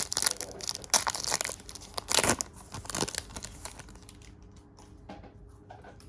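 Trading-card pack wrapper being torn open and crinkled, loud and crackly for about the first three seconds with sharp tears around one and two seconds in, then fading to faint rustling.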